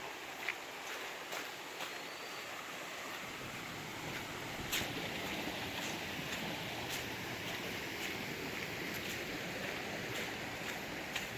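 Scattered short bird chirps over a steady rushing outdoor noise that grows fuller a few seconds in.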